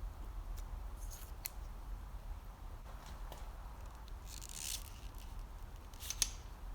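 Light clicks and a short scraping rustle of small metal parts being handled, as bicycle disc brake pads are taken out for cleaning, over a low steady hum.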